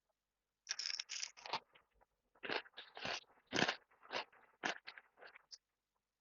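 Close-up eating sounds: crunchy food bitten and chewed in a quick, irregular run of crunches that starts about a second in.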